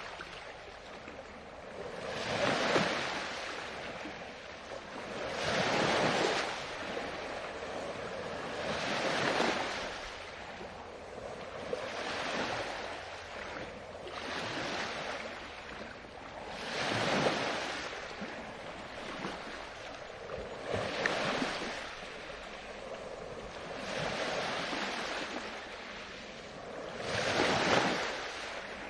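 Ocean waves breaking and washing up on the shore, one after another every three to four seconds, each swelling up and then fading into a steady background wash.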